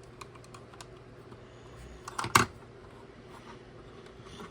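Small plastic building bricks clicking and tapping as they are handled and pressed together, with one louder click a bit past two seconds in. A faint steady hum runs underneath.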